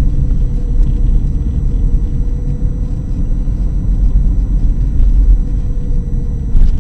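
Ford Tempo driving, its engine and road noise a steady low rumble heard from inside the cabin, with a faint steady whine above it.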